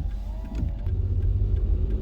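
Car driving: a steady low engine and road rumble that grows louder about half a second in, with a faint engine tone that rises slightly as it picks up speed.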